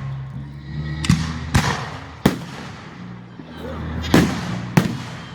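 Aerial fireworks shells bursting overhead: about five sharp bangs, each trailing off briefly, two close together near the start and two more near the end.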